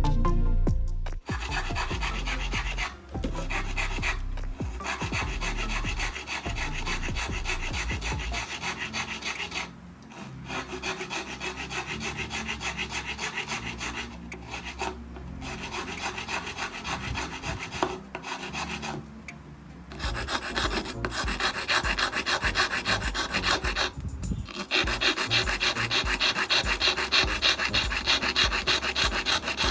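Rapid back-and-forth rasping of a hand file or abrasive being worked, in long runs broken by several short pauses.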